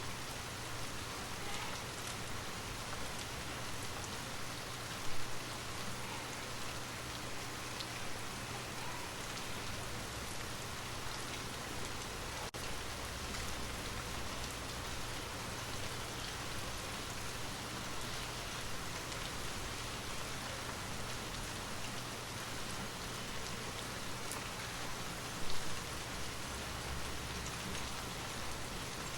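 Steady rain falling, an even hiss, with a brief louder sound twice: about five seconds in and near the end.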